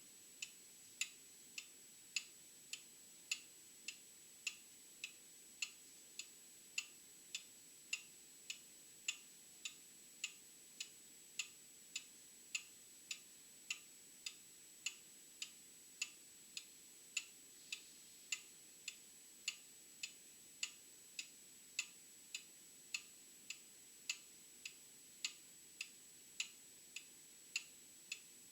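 Old mechanical clock ticking steadily, about two ticks a second, the strokes alternating louder and softer in a tick-tock rhythm.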